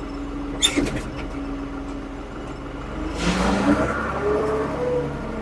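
A 1975 Ford 550 backhoe's diesel engine running under changing load. There is a sharp clank under a second in, and the engine note rises and gets louder about three seconds in.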